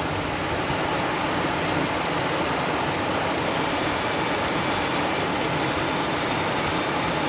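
Steady rain falling and pattering on surfaces, with faint drips and ticks through it.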